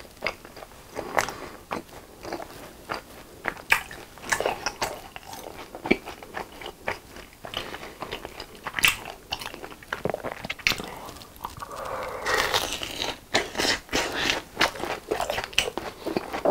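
Close-miked eating sounds of a deep-fried cheese ball dipped in white sauce: crisp crunching bites and sticky, wet chewing, with many sharp clicks throughout.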